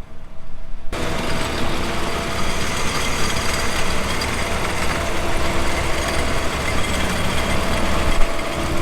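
Prinoth Bison X snow groomer's diesel engine running steadily close by; about a second in the sound suddenly becomes louder and brighter.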